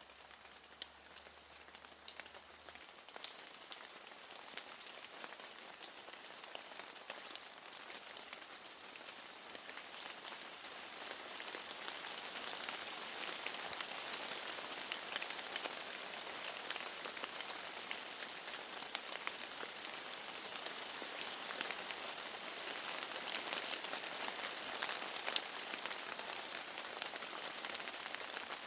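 Steady rain with many fine drop ticks, pattering on a window, getting heavier about a third of the way in.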